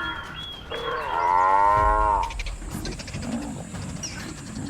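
African buffalo giving one long, low moo-like bellow about a second in, dropping in pitch as it ends.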